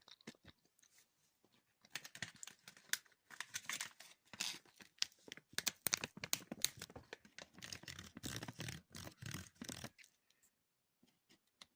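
Close-miked sticky, wet mouth sounds of chewing gummy marmalade sweets: dense small clicks and crackles that start about two seconds in and stop shortly before the end.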